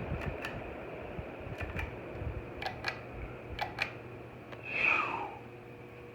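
Ceiling fan pull-chain switch clicking, in about four quick pairs of clicks over the first four seconds. About five seconds in there is a short squeal falling in pitch.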